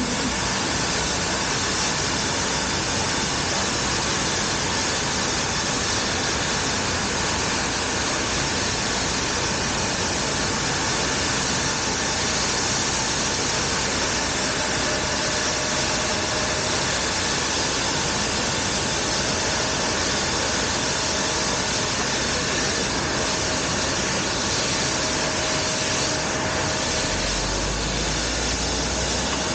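Steady jet engine noise from an Embraer 175 regional jet on pushback, an even rushing roar with a faint steady whine growing in the second half and a low rumble coming in near the end.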